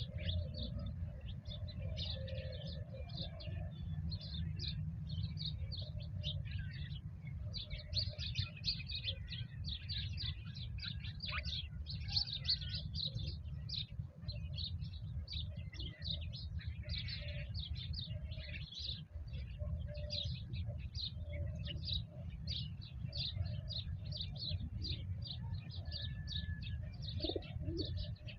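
A chorus of small birds chirping rapidly and without a break, with low cooing from a pigeon or dove now and then, over a steady low rumble.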